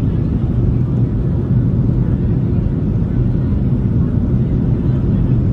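Boeing 737-700 engine and airframe noise heard inside the passenger cabin: a loud, steady low rumble with a constant hum.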